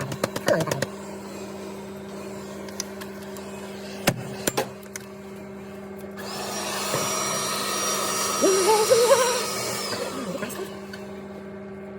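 Vacuum cleaner runs for about four seconds in the middle, a steady hiss with a high whine, its note wavering as it draws up dust while a boiler is cleaned out during a service. Before it come several clicks and knocks.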